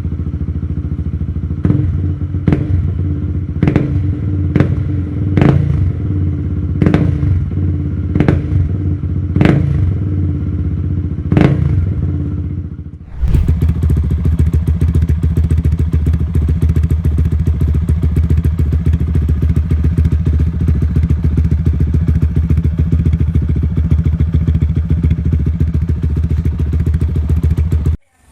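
Benelli RFS 150i's single-cylinder engine, fitted with an aftermarket exhaust, idling and given about ten quick throttle blips roughly a second apart. About 13 seconds in, the sound changes abruptly to a steady, rougher idle with a crackling edge.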